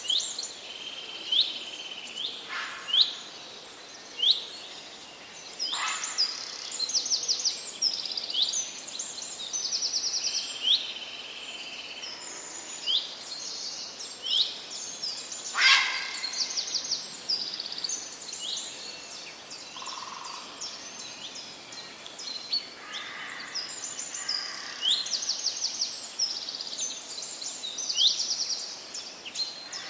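Several birds singing: a continual run of short chirps, quick trills and rising whistled notes, over a faint steady hiss.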